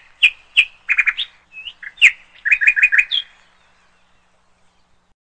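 A small songbird calling: a quick run of short, sharp chirps for about three seconds.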